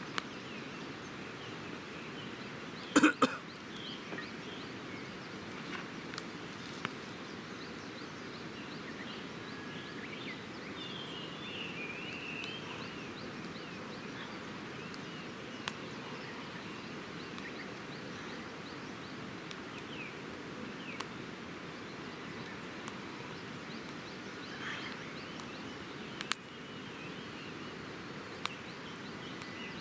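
Wood campfire crackling with scattered small pops and one louder sharp burst about three seconds in, over a steady outdoor hiss, with birds chirping faintly in the background.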